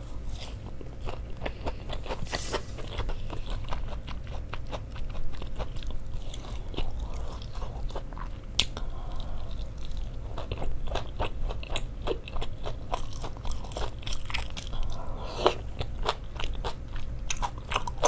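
Close-miked mouth sounds of a person biting and chewing pan-fried battered Korean pancakes (jeon): a run of soft, wet clicks and smacks throughout.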